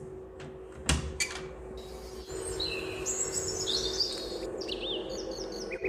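Birds chirping and twittering in quick high calls, with a steady low hum underneath and a couple of sharp clicks about a second in.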